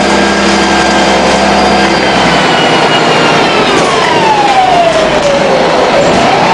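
Volvo B7R Low Entry bus running, its six-cylinder diesel engine heard with a whining tone over it. From about halfway through, the whine falls steadily in pitch for a couple of seconds, then starts rising again near the end.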